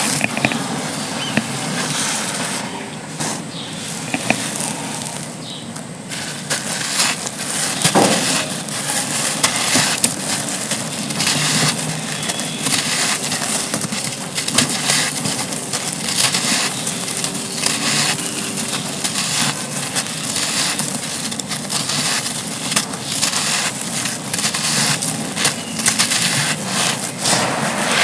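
Dry, gritty slabs crumbling and crunching under the hands, a steady run of fine crackles and gritty crunches with a sharper snap about a third of the way in.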